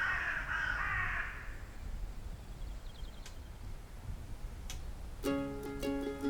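A single harsh bird call at the start, then quiet ambience with a few faint clicks. Gentle plucked-string music begins about five seconds in.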